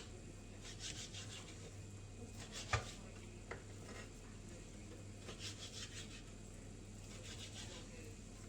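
Soft intermittent scraping and rubbing of a knife and food on a plastic chopping board, coming in short clusters, with a single knock about three seconds in.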